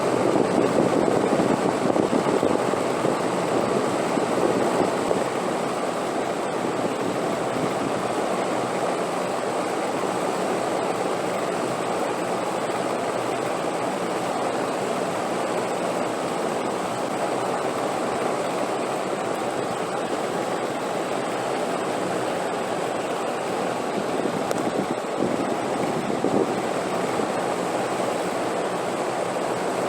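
Steady rushing wind noise, a little stronger for the first few seconds, then settling to an even level.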